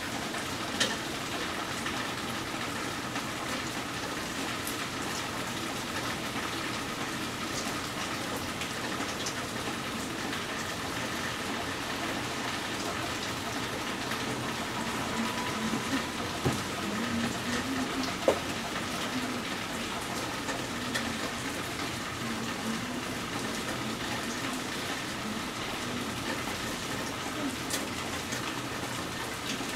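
Steady rain falling on a wet porch and street, with scattered sharp taps of drops close by, a few louder ones a little past the middle.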